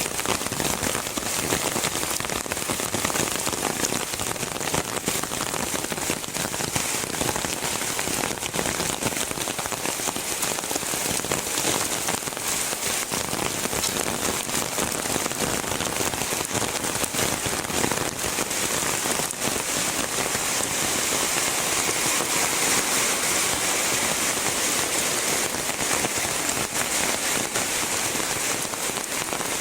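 Heavy rain falling steadily, a dense even hiss made up of countless small drop ticks.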